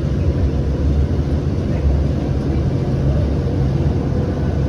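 Siemens S700 light rail vehicle running between stations, heard from inside the car as a steady low rumble with a faint steady tone above it.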